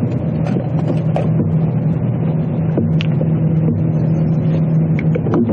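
A motor running with a steady low hum, with light clicks and knocks of handling over it.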